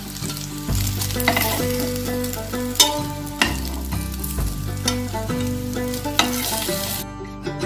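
Momos sizzling in hot oil in a frying pan, with a metal spatula clicking and scraping against the pan a few times as they are lifted out.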